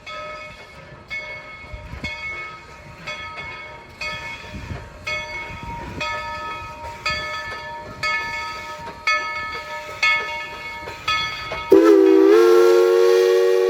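Steam locomotive bell ringing about once a second, then, near the end, the locomotive's steam whistle opens with a sudden loud chord of several tones that slides up briefly and holds.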